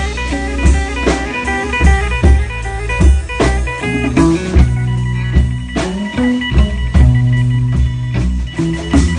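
Live blues band playing: guitar over bass and a drum kit keeping a steady beat.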